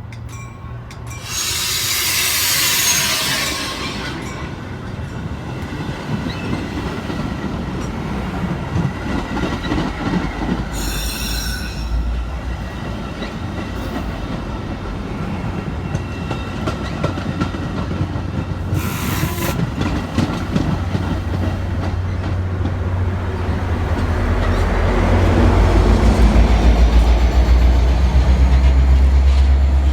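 Passenger train at a station, its wheels running on the rails with bursts of hiss and squeal. A deep diesel rumble builds louder over the last few seconds.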